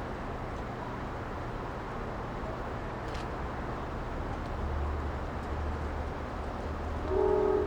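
Steady low rumble of a diesel locomotive, a little stronger from about halfway through, with a short horn blast near the end.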